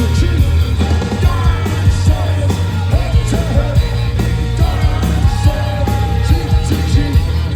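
Live punk rock band playing loudly: heavy bass and drums with shouted vocals.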